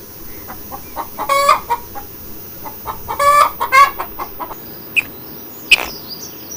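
Chicken calling: soft clucks and two louder, drawn-out calls about a second and a half and about three seconds in. A sharp click comes near the end.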